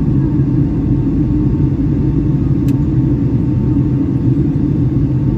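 Steady low rumble inside the cabin of a Boeing 757-300 airliner in flight: engine and airflow noise.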